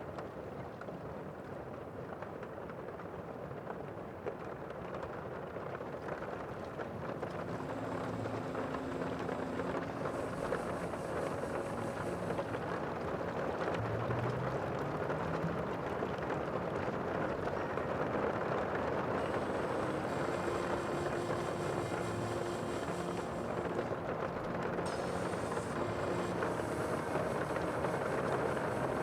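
Steady rushing sea ambience of water and wind, swelling over the first half and then holding level.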